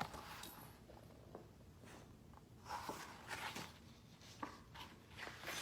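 Faint paper rustling and soft handling of a picture book as a page is turned, with a few small clicks.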